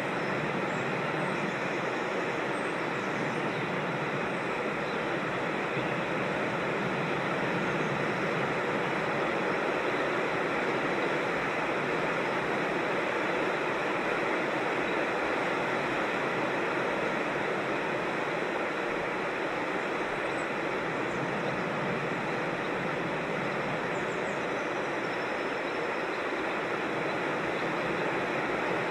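Steady rush of a creek or small waterfall, an even, unbroken noise, with a few faint high bird chirps above it.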